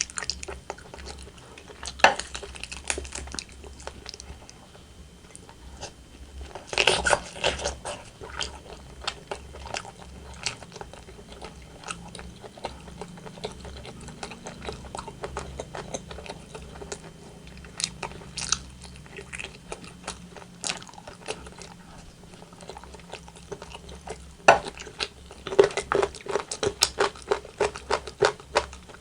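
Close-miked eating sounds of rotisserie chicken: wet chewing and crunching in bursts of short clicky bites. Busier spells come about a quarter of the way in and again near the end, with a few sharp single snaps or knocks between them.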